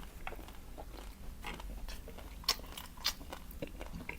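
Close-miked mouth sounds of eating: irregular crisp crunches and wet chewing, with two sharper crunches about two and a half and three seconds in.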